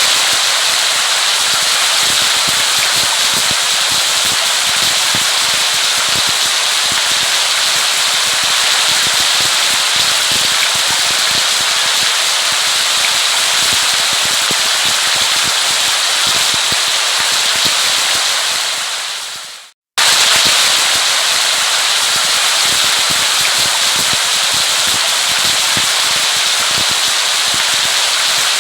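Steady heavy rain, a dense hiss of drops with a crackly patter. About nineteen seconds in it fades out to a moment of silence, then comes straight back at full level.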